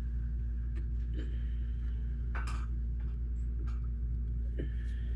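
Lego bricks being handled and pressed together: a few light clicks, the clearest about two and a half seconds in, over a steady low hum.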